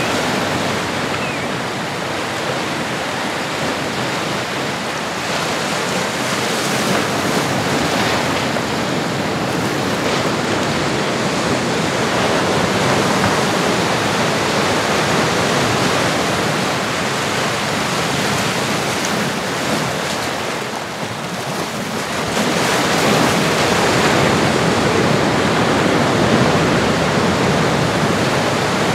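Ocean surf: a steady rush of waves washing in that swells and eases, dipping briefly about three-quarters of the way through before building again.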